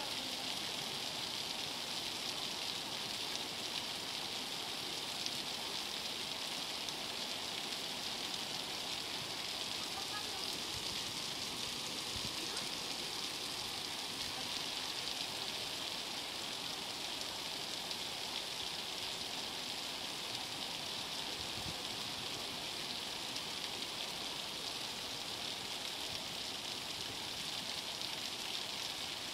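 Heavy rain pouring steadily, mixed with muddy floodwater rushing down a flooded street.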